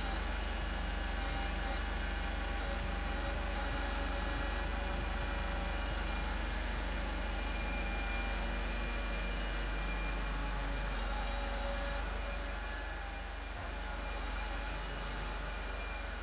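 Kubota L4701 compact tractor's diesel engine running steadily.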